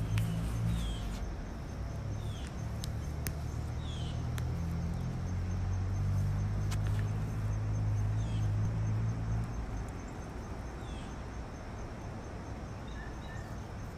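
Outdoor ambience: a bird gives short falling chirps every one to three seconds over a low motor hum, which stops about ten seconds in. A few faint clicks.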